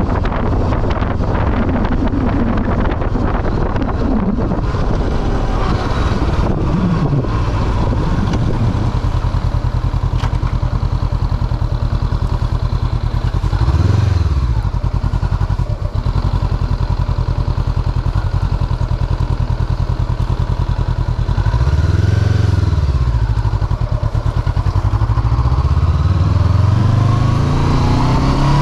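Motorcycle engine running under way, its revs climbing and dropping several times through the gears, with wind rushing over the microphone.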